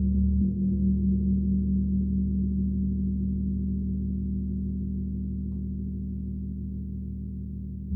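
80 cm Peter Hess tam gong humming deep and low, swelling just after the start and then slowly fading, with a steady pulsing beat in its tone. It is struck again right at the end, and the level jumps back up.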